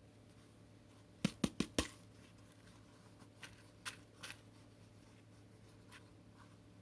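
Handling noise: four quick sharp clicks a little over a second in, then a few fainter clicks, over a low steady hum.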